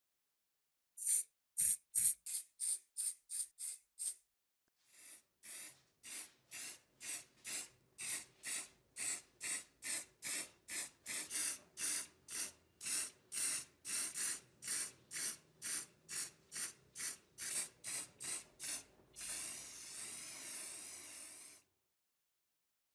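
Short hissing bursts of spray from a nozzle, in quick succession at about two a second, then one longer continuous spray lasting a couple of seconds before it stops.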